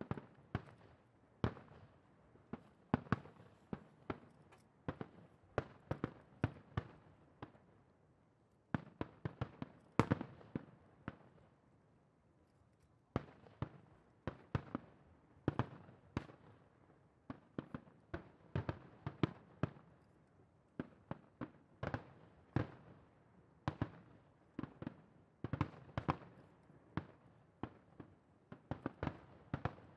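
Distant aerial fireworks shells bursting in a rapid, irregular barrage of sharp booms, a few each second, with a short lull about eleven seconds in.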